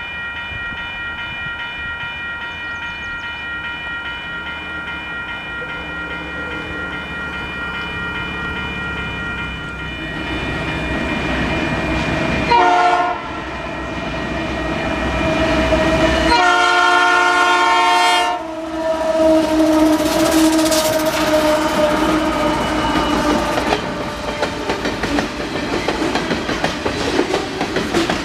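Canadian Pacific freight train passing, its locomotive horn sounding a short blast and then a longer one of about two seconds. The horn is followed by the steady rumble and clickety-clack of the cars going by.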